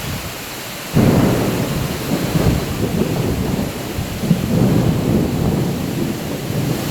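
A thunderclap breaks suddenly about a second in and rolls on as a long, low rumble, over the steady hiss of rain.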